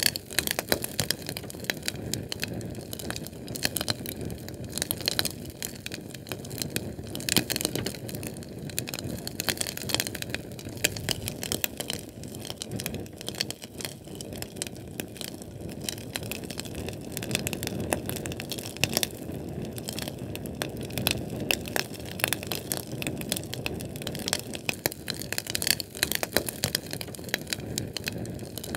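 A Sterno can of chafing fuel burning: dense, irregular crackling pops and snaps over a steady low rush of flame.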